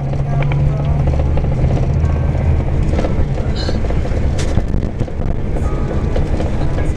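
Music playing over the steady low drone of a moving coach's engine and road noise.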